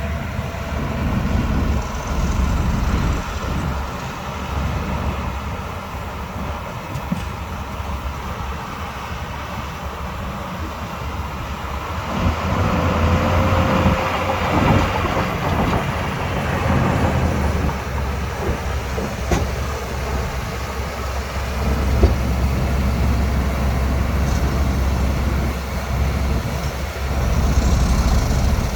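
Shantui DH17C2 crawler bulldozer working: its diesel engine runs steadily under load with clanking from the tracks, and it gets louder for a few seconds in the middle.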